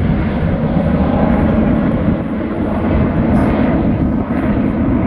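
Jet aircraft passing close by: loud, steady engine noise, heaviest in the low end.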